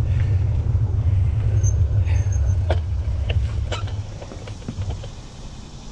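Wind rumbling on the microphone during a bike ride, with a few light clicks over it. It fades over the last two seconds, then cuts off suddenly.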